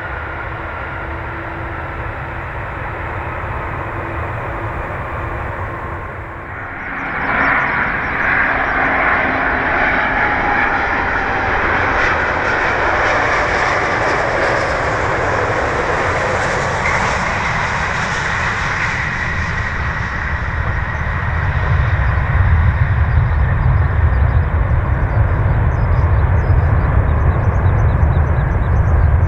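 Jet airliner landing noise: the tail of one jet's landing, then from about seven seconds in an Airbus A350-900's engines whining and running loud as it comes in to land. A low rumble grows stronger over the last third as the landing goes on.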